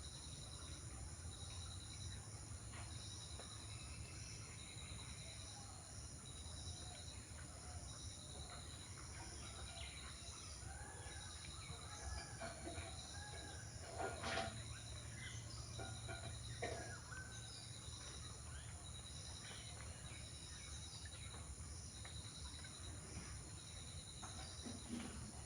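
Insects trilling in short, evenly repeated pulses, with scattered bird chirps and a few sharp ticks, the loudest a little past the middle.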